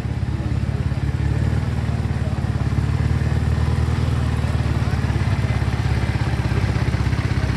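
Speedway motorcycle's single-cylinder engine running steadily at a fast idle, with a quick, even pulsing beat.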